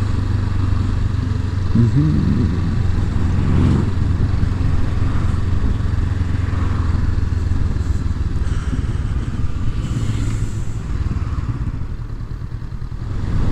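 Honda CB500F's parallel-twin engine running while riding, a steady low drone under a rush of wind and road noise, with brief rises in engine pitch about two and four seconds in.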